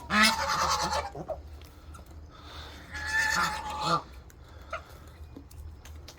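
Domestic geese honking in two loud bouts of about a second each, one right at the start and another about three seconds in.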